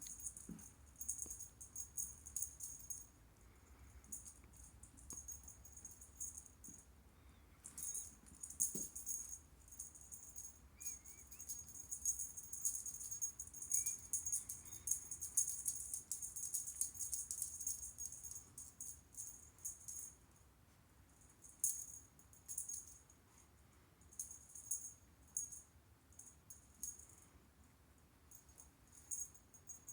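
A small jingle-bell cat toy rattling in irregular bursts as kittens bat it around. The jingling is thickest through the middle of the stretch and comes in short scattered bursts toward the end.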